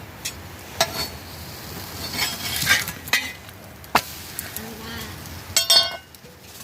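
Metal kitchenware knocking and clinking: a scatter of separate taps and scrapes of utensils against pots and plates, with a brief ringing clink about two-thirds of the way in.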